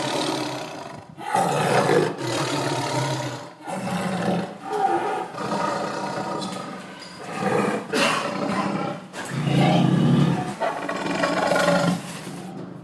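A big cat roaring and growling repeatedly, a string of loud roars with short breaks between them.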